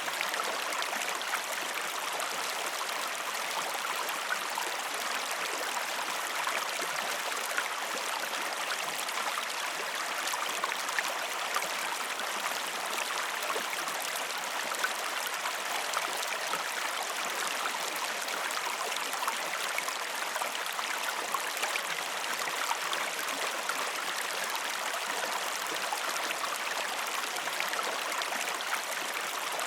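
A river flowing steadily, an even rush of water with no change in level.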